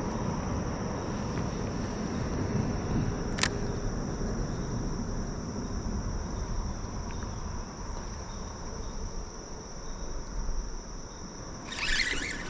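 Insects chirring in a steady, high-pitched chorus over the low rush of creek water, with a single sharp click about three and a half seconds in.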